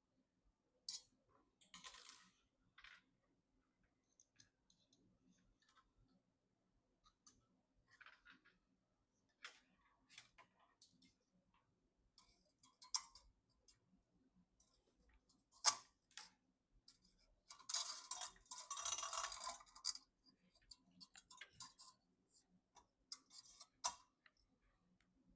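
Handling noises of PC parts during assembly: scattered sharp plastic and metal clicks, with brief rustling and a longer burst of rustling about eighteen seconds in.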